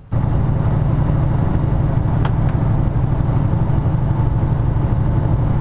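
Semi truck on the road: loud, steady engine and road rumble that starts abruptly, with a single click about two seconds in.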